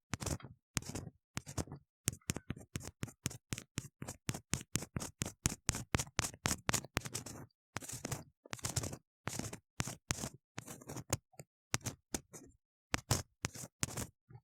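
Ear-cleaning tool scraping and rubbing inside a silicone ear model: a fast run of short, hard strokes, about three a second, with brief pauses.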